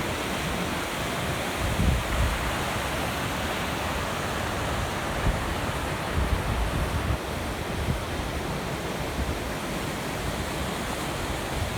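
Steady rushing noise of wind and running water from a mountain waterfall and river in a snowstorm. Wind buffets the microphone in several low gusts about two, five and six to seven seconds in.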